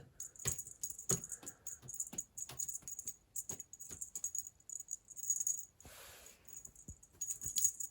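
Irregular light clicks and a faint, high, on-and-off jingling rattle, with a short soft rustle about six seconds in.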